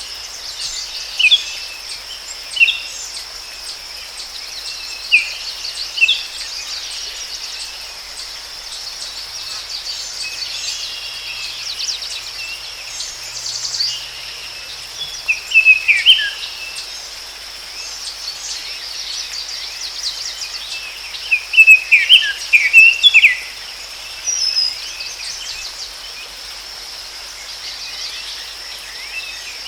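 Forest ambience: a steady high insect drone under scattered short bird chirps and calls, with a loud flurry of chirps about three-quarters of the way through.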